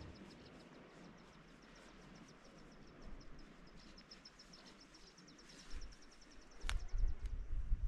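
A small bird singing a long trill of quick, evenly repeated high chirps, about seven a second, that stops near the end. Toward the end there is low rumbling and one sharp click, the loudest sounds.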